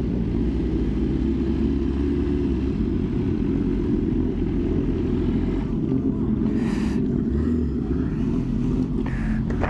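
Riding a motorcycle on a rain-soaked road: steady wind rush over a helmet-mounted microphone with the engine's drone underneath, and a short hiss about seven seconds in.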